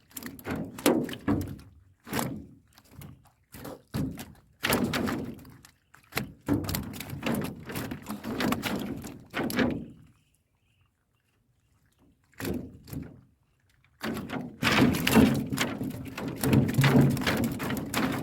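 Bursts of knocking and thudding against a small boat, in irregular clusters. The sound drops out completely for about two seconds around the middle.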